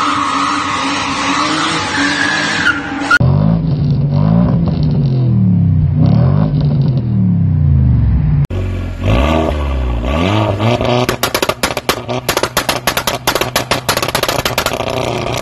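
Car engines in three quick clips: first held at steady high revs, then revved up and down over and over, then revved up and bouncing on the rev limiter with a rapid run of exhaust pops and bangs.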